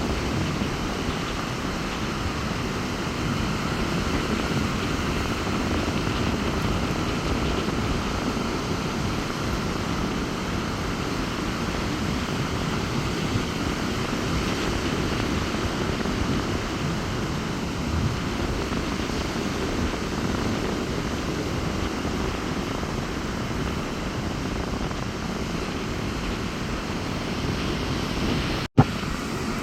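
Rough sea surf washing steadily onto a beach in strong wind, mixed with low wind rumble on the microphone. Near the end the sound cuts out for an instant and comes back with a click.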